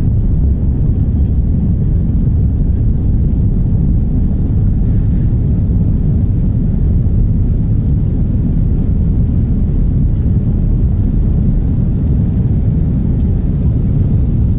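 Airbus A330-900neo's Rolls-Royce Trent 7000 jet engines during takeoff: a loud, steady low rumble that holds at an even level, with a faint thin high tone coming in about halfway through.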